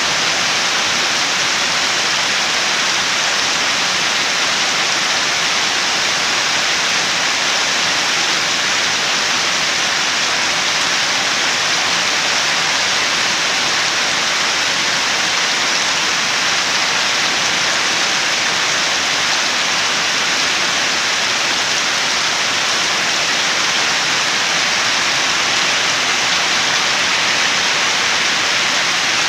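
Steady heavy rain: a dense, even hiss with no single drops or thunder standing out.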